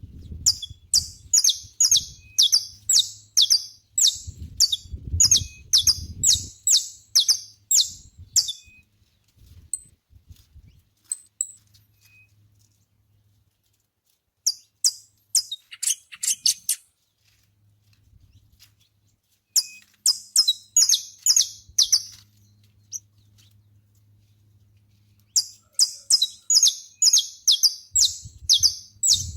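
Saffron finch (canário-da-terra) singing: four bouts of quick, high, repeated chirping notes, each lasting a few seconds, with pauses of a few seconds between them.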